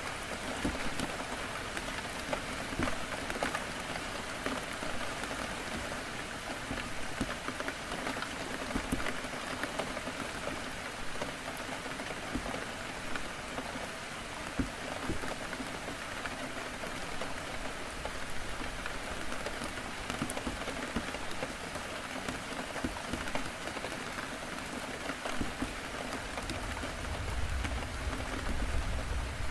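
Heavy rain pattering steadily on a window, with many small drop ticks. A low rumble swells briefly near the end.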